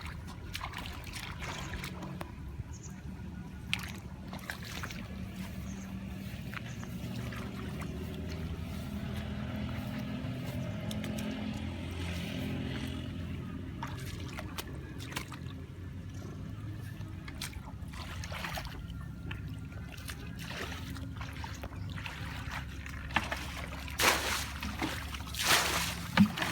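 Shallow water sloshing and splashing over a steady low motor hum that swells in the middle, with a few louder, sharper sounds near the end.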